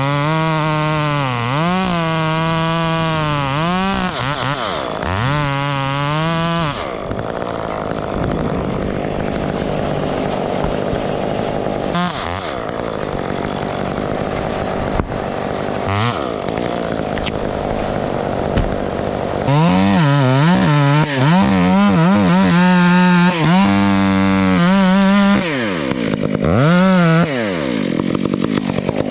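Chainsaw engine revving up and dropping back several times, then a long stretch of rougher, more even sound as the saw works through wood, then more revving near the end.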